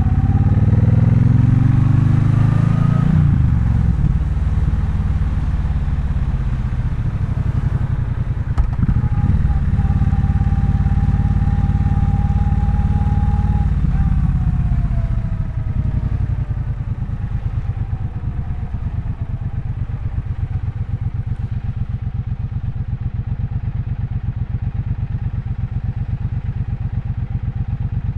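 Triumph Bonneville Bobber's 1200 cc parallel-twin engine pulling hard with rising revs for the first few seconds, then holding a steady cruise. About halfway through the revs fall away off the throttle, and the engine settles to a quieter, even low beat for the rest of the time, close to idle.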